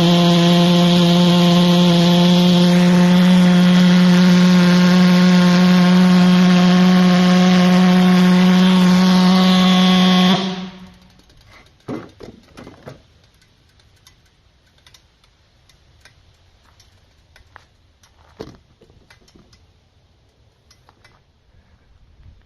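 Gasoline model pulse jet engine with reed valves running with a loud, steady buzz, then cutting off suddenly about ten seconds in as it is shut down. A few faint clicks and knocks of handling follow.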